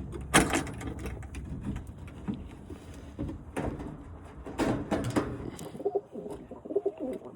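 Birmingham roller pigeons cooing in their loft, the low cooing calls clearest near the end, with a sharp knock just after the start and a few more knocks and rustles among them.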